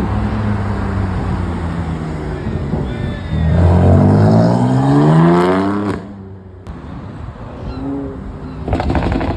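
A car engine running steadily, then accelerating hard with a rising pitch for about two and a half seconds, cutting off suddenly about six seconds in. A short loud rush of noise follows near the end.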